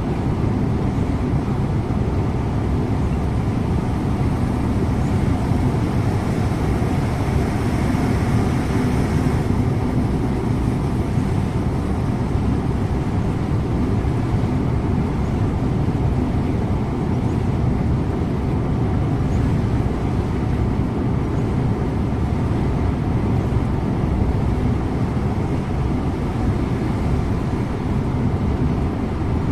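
Scania InterLink bus driving at a steady speed: a constant engine drone mixed with tyre and road noise.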